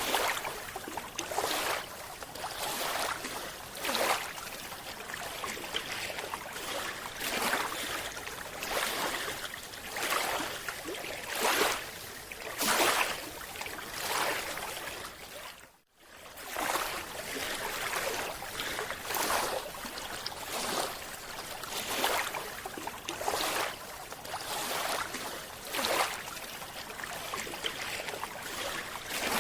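Underwater rushes of air bubbles, a surge every one to three seconds, with a brief drop-out about halfway through.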